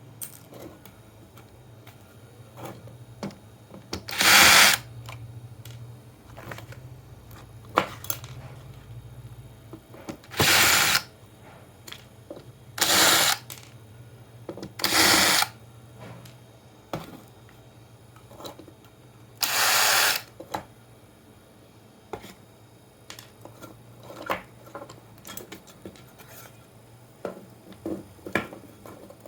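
A small power tool runs in five short bursts of about a second each. Small clicks and knocks of handling come between them.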